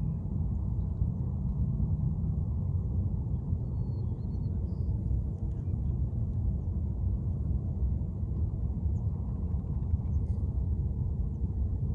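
Steady low outdoor rumble with a few faint, short high bird chirps about four to five seconds in.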